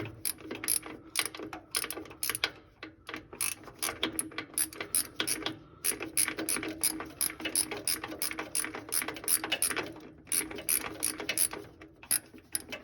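Hand ratchet clicking in rapid runs as it turns a socket on a long extension, backing out the starter's top mounting bolt, with short pauses between strokes.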